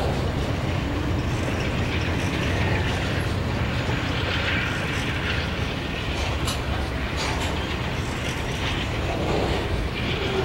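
Several diesel locomotives of a freight train passing close by: a steady low engine rumble with rolling wheel noise, and a few sharp clicks from the wheels on the rails between about six and seven and a half seconds in.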